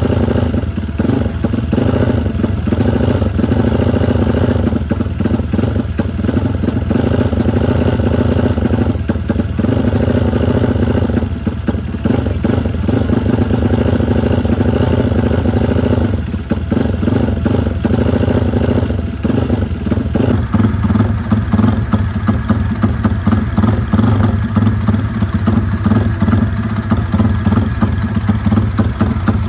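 Yamaha Vixion motorcycle's single-cylinder four-stroke engine running steadily, with a few brief dips; about two-thirds of the way in it gets louder and busier, held at higher revs.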